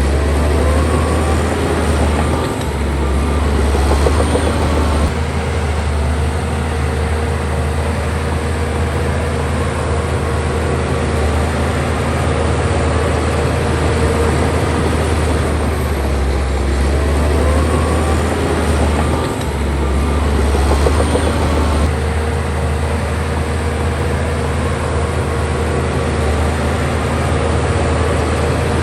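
Heavy diesel engine of earthmoving machinery running steadily under load with a deep, continuous drone, dipping briefly twice.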